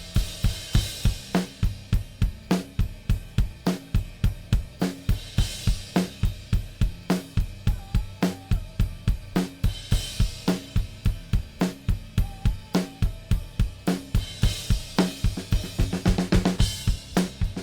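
Recorded drum-kit tracks playing back: kick, snare, hi-hat and cymbals in a steady beat of about three hits a second. They run through an SSL 4000 G-style stereo bus compressor set for aggressive compression.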